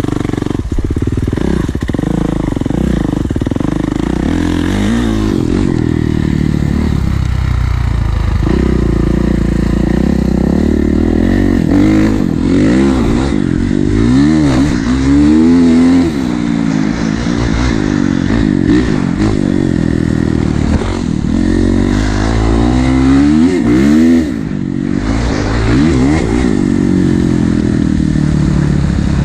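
Kawasaki KX450 dirt bike's four-stroke single-cylinder engine revving up and down while being ridden, its pitch climbing and falling over and over, loudest about halfway through.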